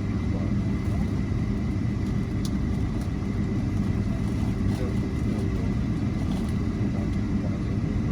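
Airliner cabin noise while taxiing: a steady low rumble from the jet engines at taxi power and the wheels rolling on the taxiway, with a faint steady high whine. A small tick sounds about two and a half seconds in.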